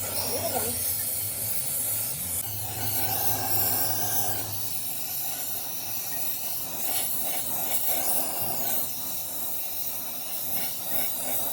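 A steady hiss with a low hum underneath for the first few seconds.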